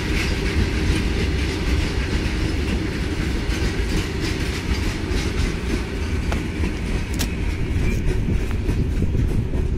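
Loaded BOXNHL open freight wagons rolling past on the rails, wheels giving a steady heavy rumble with occasional sharp clicks over the track.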